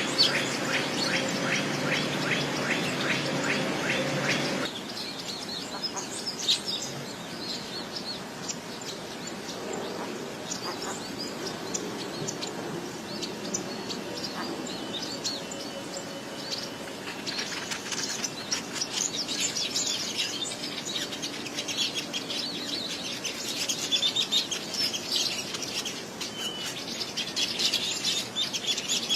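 Caged songbird singing in fast chirps and trills. The sound changes abruptly about five seconds in: the calls thin out to scattered chirps, then build again to dense rapid chirping through the last third.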